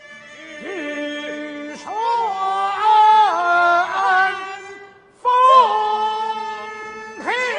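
A man singing a Kunqu opera aria in a full voice, with long held notes and wide slides in pitch. The line breaks off briefly near five seconds, then a new loud phrase begins, and another near the end.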